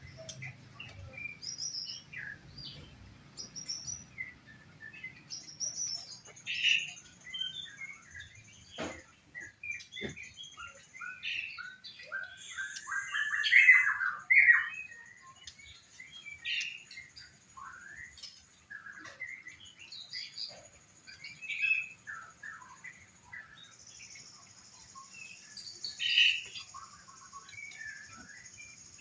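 Caged songbirds chirping and calling, many short notes throughout, with a louder burst of song about halfway through. Long, high, thin notes are held behind the chirps for several seconds at a time.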